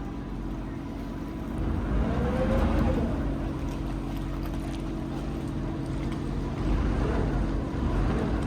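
Friendship water taxi boat's engine running at a steady drone under way, with water noise, a little louder from about two seconds in.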